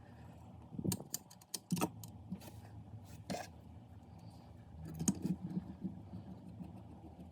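Irregular clicks and knocks of small hard objects being handled, in short clusters over a low steady hum.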